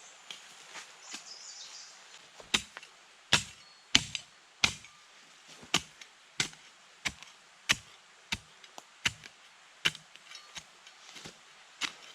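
Firewood being chopped: a steady run of sharp chops, about one and a half a second, growing louder a couple of seconds in.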